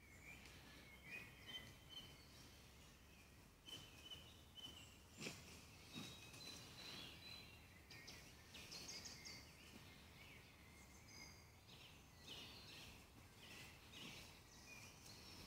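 Faint songbirds chirping and trilling in a quiet forest, with a few soft clicks or knocks in the first half.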